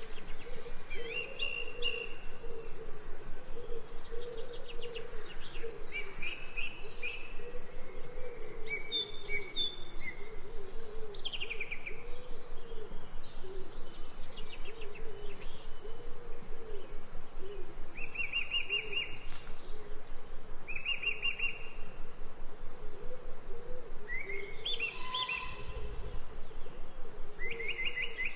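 Songbirds chirping and trilling, with short calls every couple of seconds over a steady, evenly pulsing background layer.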